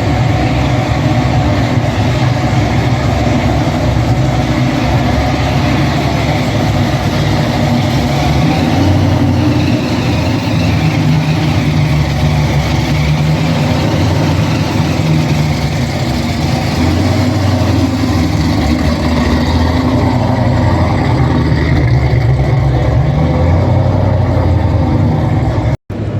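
A car engine running loudly and steadily, its pitch rising and falling a little as the throttle changes.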